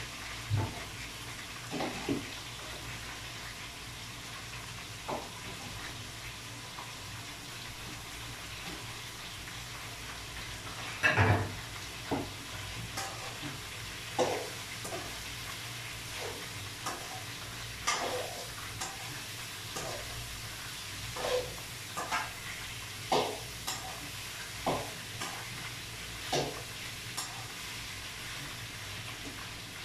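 Food sizzling as it fries in a wok, stirred with a metal spoon that scrapes and clinks against the pan at irregular moments; the loudest scrape is about eleven seconds in.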